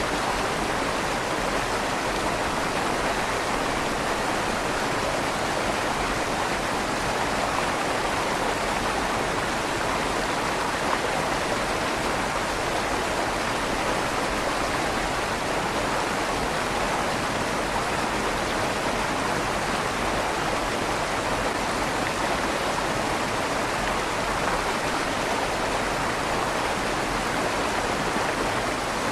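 River water flowing and rushing steadily through a stone tunnel under a bridge, a constant even wash with a slight echo off the stone walls.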